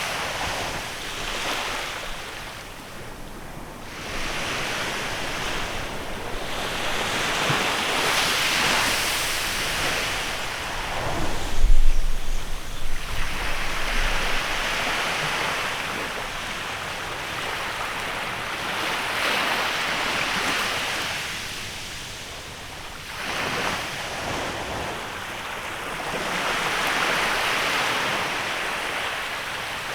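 Small waves washing onto a beach in a bay, rising and falling every few seconds. About midway, wind gusts against the microphone with a short low rumble.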